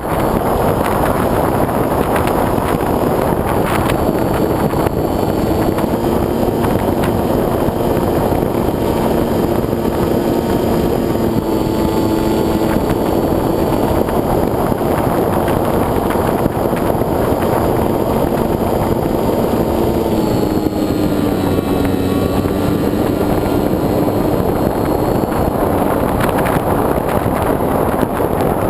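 Onboard sound of a foam RC plane in flight: a steady rush of air over the wing-mounted camera, with the motor and propeller whining underneath. The whine shifts in pitch with throttle, dipping about two-thirds of the way through and then rising again.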